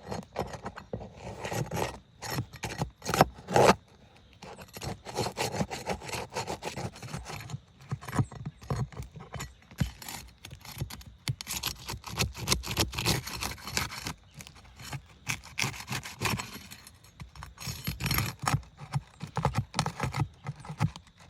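Asphalt roof shingles being pried loose and unsealed from the course beneath: a continuous run of irregular scrapes and knocks of the tool against the shingles and nails.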